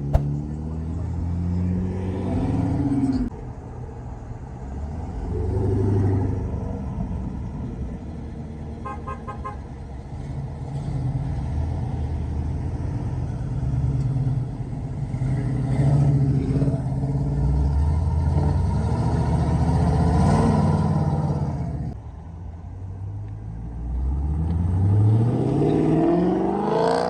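A car engine revving repeatedly, its pitch rising and falling, with a long climbing rev near the end.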